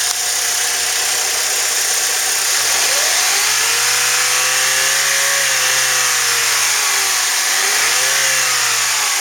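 2004 Saturn Ion's 2.2-litre four-cylinder engine idling, then revved twice: a long rise held for a few seconds before dropping back, then a shorter blip. The engine runs really good.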